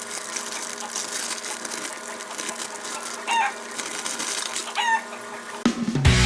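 A chicken calling twice, two short squawks about a second and a half apart, over a steady hum and light crackling. Loud guitar music starts near the end.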